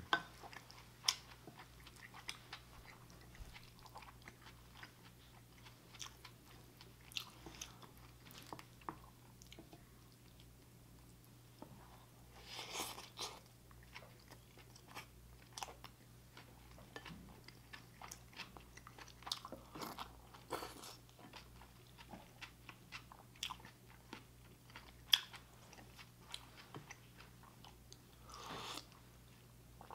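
Close-miked chewing and wet mouth clicks of a person eating beef and rice from a wooden spoon, with a few longer breathy slurps, one of them a sip of stew broth near the end. A faint steady low hum runs underneath.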